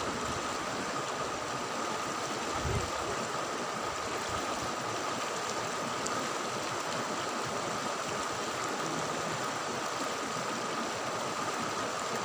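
Steady rushing of a flowing river, with a thin steady tone above it and one soft low thump a little under three seconds in.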